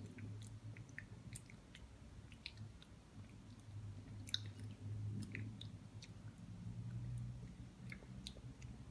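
A child chewing a mouthful of fried egg, faint, with a few light clicks of a metal spoon scooping in a ceramic bowl over a low steady hum.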